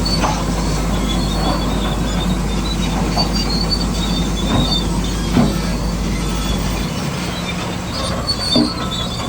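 Tracked bulldozer working: a steady motor with intermittent high squeals from the tracks and a few knocks, the loudest about five and a half and eight and a half seconds in. A low hum drops out about seven seconds in.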